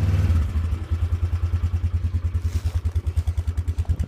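ATV (quad) engine running just after a cold start in freezing weather. It drops from a fast, steady run to a lumpy idle about half a second in, with even exhaust pulses about ten a second.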